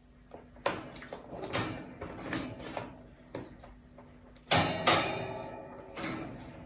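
Alexandrine parakeet splashing water as it bathes: a string of irregular splashes, the biggest about four and a half seconds in.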